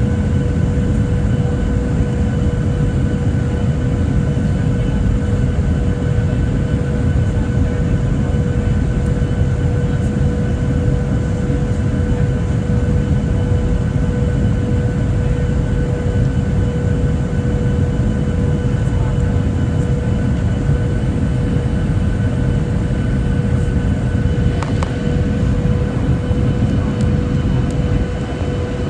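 Steady cabin noise aboard a Boeing 737-800: a low rumble of its CFM56 turbofan engines and airflow, with a constant whine.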